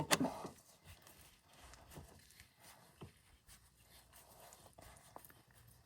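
Hydraulic hose fitting being threaded on by hand: one sharp metal knock at the start, then sparse faint clicks and taps as the fitting is worked onto the thread.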